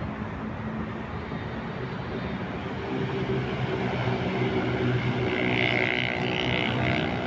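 City street traffic: a steady bed of traffic noise, with a motor vehicle's engine hum growing louder about three seconds in and a higher hissing whine joining it near the end.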